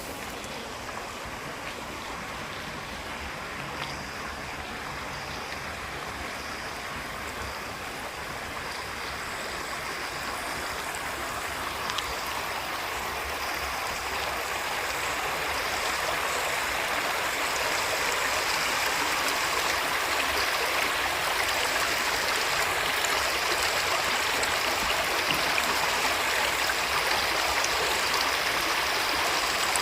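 Small waterfall: water rushing and splashing in a steady stream, growing louder over the first half, then holding steady.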